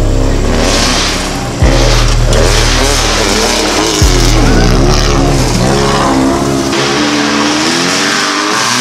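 Lifted Honda Civic's engine revving up and down as it drives off-road, heard in several short clips cut together, so the sound jumps abruptly about one and a half and four seconds in.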